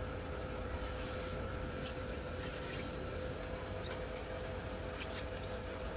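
Factory machinery running with a steady hum and a constant tone, with brief hissing in the first half and scattered faint clicks.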